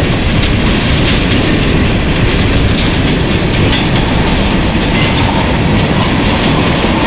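Freight train's covered hopper and tank cars rolling past close by: a loud, steady noise of steel wheels on the rails.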